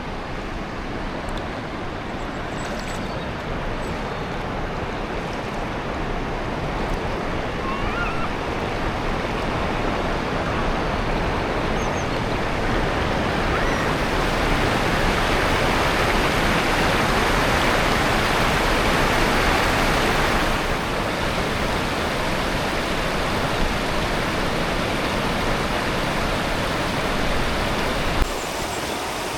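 Steady rush of river water, like a stream or small waterfall, growing louder toward the middle and then easing back.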